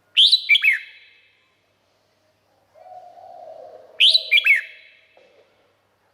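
Red-whiskered bulbul singing two short, loud song phrases about four seconds apart, each a quick run of falling notes. A fainter, lower, drawn-out sound comes in between them.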